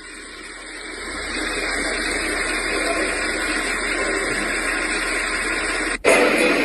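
Steady rushing noise that swells over the first second, then holds until it stops abruptly about six seconds in.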